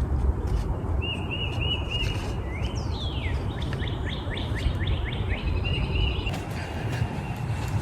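Songbirds calling in woodland: a quick run of short repeated notes, a falling whistle about three seconds in, then a fast series of short rising notes, over a steady low rumble.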